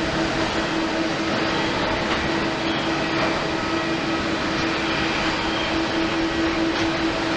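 Boeing 787-8 airliner's jet engines running steadily: an even rushing roar with a steady low hum through it.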